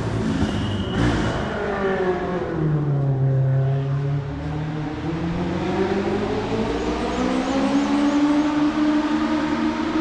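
Race car engine running hard on a hillclimb course: its note drops over the first few seconds, then climbs steadily as the car accelerates away.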